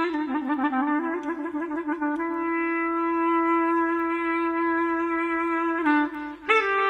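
Solo clarinet playing a slow melody: a quick, ornamented run of notes, then one long held note, a short break near the end and a new, higher note.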